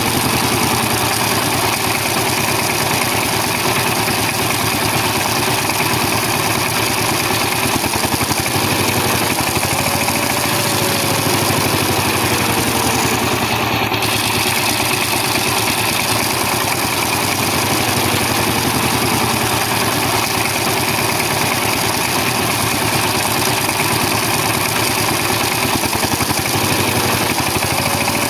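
Small motor of a miniature DIY thresher machine running continuously at a steady speed, a dense mechanical buzz whose pitch drifts slightly up and down.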